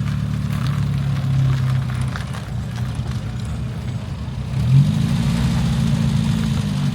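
A car engine idling close by. Just before five seconds in its revs rise and are held higher for about two seconds, then drop back to idle.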